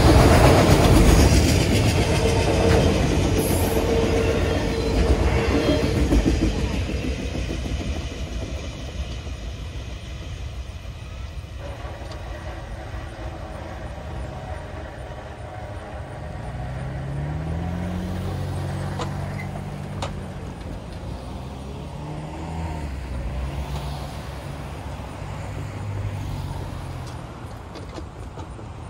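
Freight train passing close by: a loud rumble of wheels on rail with a steady tone over the first few seconds, fading as the train moves away. A quieter low engine hum then rises and falls through the second half.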